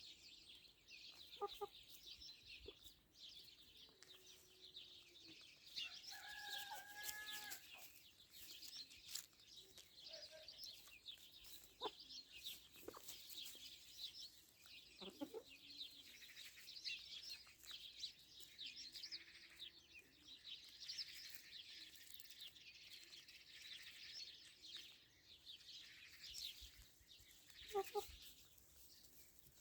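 Free-range chickens clucking now and then, with one longer call about six seconds in, over constant faint high-pitched chirping of small birds.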